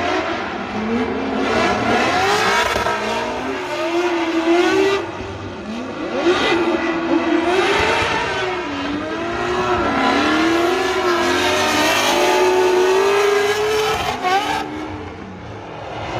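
Drift car engine revving hard, its pitch swooping up and down again and again as the throttle is worked, under a steady rush of noise.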